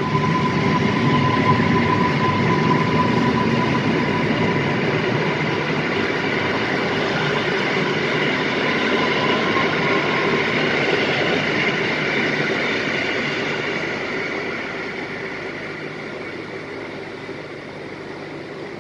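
Orange-and-red Polregio electric multiple unit pulling out and rolling away along the platform, its running noise steady with a thin whining tone at first, then fading over the last few seconds as the train draws off.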